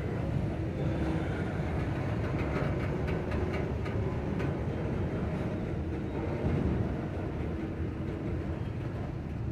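Double-stack intermodal freight train of well cars rolling slowly past: a steady rumble of steel wheels on the rails, with a few faint clicks.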